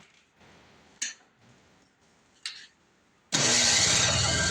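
Two brief sharp sounds, then about three seconds in an abrupt, loud start of the electric starter cranking the MTD two-stroke snowblower engine, which carries on with a steady low engine note.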